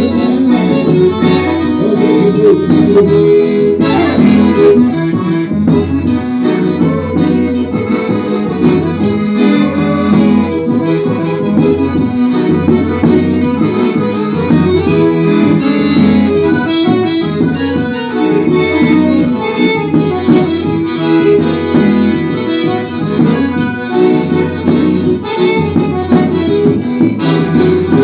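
Forró music played on accordion over a quick, steady percussion beat.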